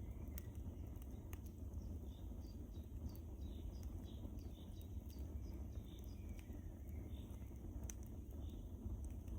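Wood fire crackling: a steady low rumble of burning with a few sharp pops and snaps scattered through it.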